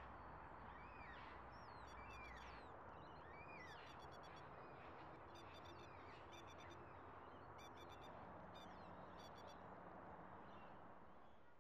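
Faint birdsong: short whistled chirps that bend up and down in pitch in the first few seconds, then several clusters of rapid, very high ticking notes, over a steady background hiss.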